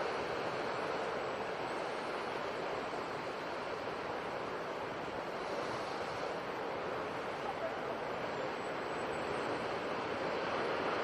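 Sea surf washing in steadily, an even hiss of breaking waves with no single wave standing out.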